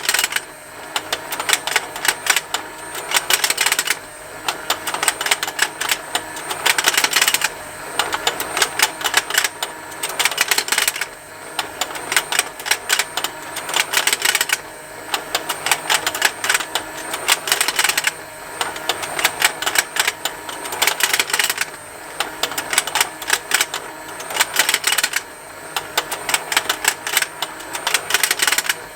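Plastic fishing-game toy running: its small motor and gears tick continuously while the plastic fish snap open and shut, the rapid clicking swelling into louder bursts about every three and a half seconds as the pond turns.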